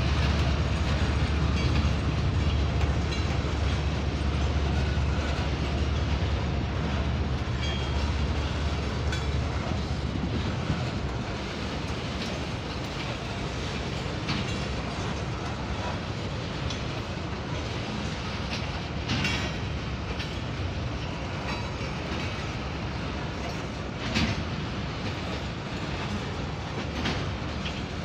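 Coal train's hopper wagons rolling past, with a steady rumble and wheels clacking over the rail joints. The low rumble eases off partway through, and sharp clicks come every few seconds in the second half.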